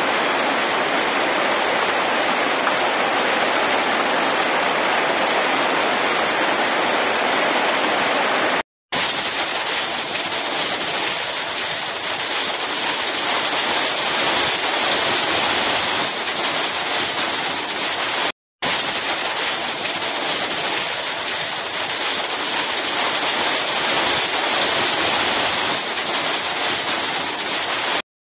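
Heavy rain pouring steadily onto pavement and leaves, an even hiss that drops out to silence for a split second a few times.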